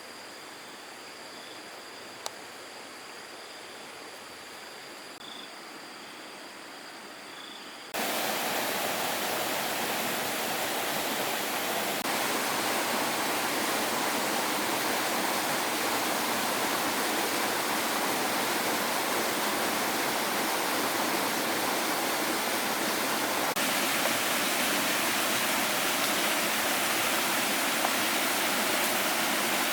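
Fast-flowing water rushing steadily, cutting in abruptly about eight seconds in after a quieter stretch of faint hiss with steady high-pitched tones.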